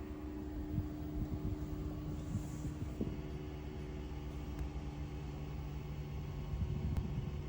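A steady low mechanical hum, like a motor or engine running, with faint scattered clicks.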